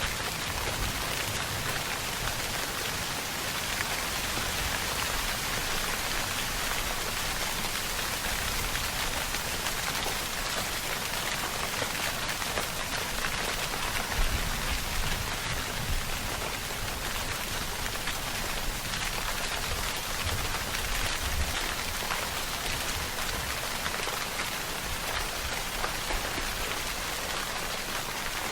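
Steady, dense rainfall: an even hiss of rain falling on a surface, with an uneven low rumble underneath and one short louder bump about halfway through.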